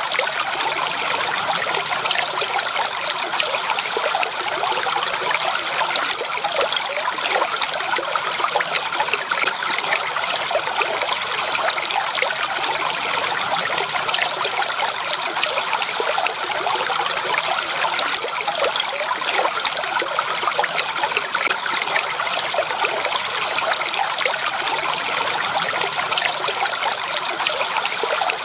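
A stream or brook of running water trickling and splashing steadily, a dense bubbling wash with no pauses.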